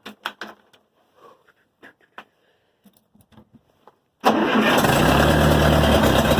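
A few light clicks and knocks, then about four seconds in the starter suddenly begins cranking the cold Ferguson TO-20's gasoline engine, a loud steady churning; the engine has not yet caught.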